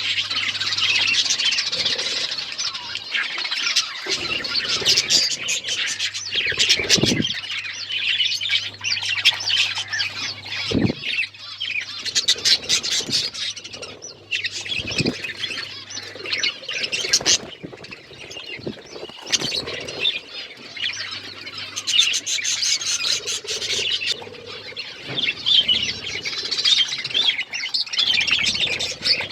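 Pet budgies and lovebirds chirping and chattering without a break, with sharp clicks and squawks mixed in.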